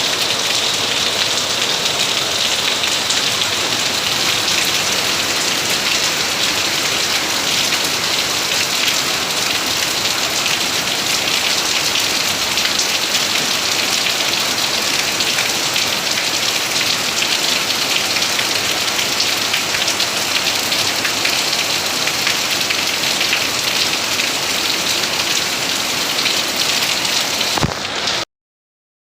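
Heavy rain falling steadily: a dense hiss of countless drops striking surfaces. It cuts off abruptly about a second before the end.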